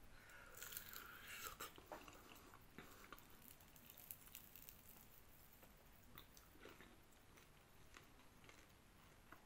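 A person biting into a crispy-coated chicken wing and chewing it with the mouth close to the microphone. The faint crunching is strongest in the first couple of seconds, then softens to quieter chewing.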